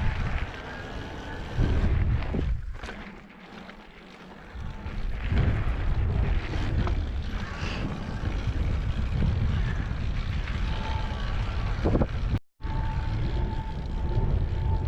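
Wind buffeting the microphone during an e-bike ride on a dirt trail, with scattered knocks and rattles from the bike going over the ground. It dips quieter for a couple of seconds near the start and drops out completely for a moment about twelve seconds in.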